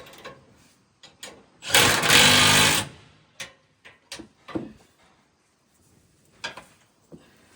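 Impact wrench run in one burst of about a second, rattling as it works a bolt on the combine's concaves. Scattered knocks and clicks of tools and metal parts come before and after it.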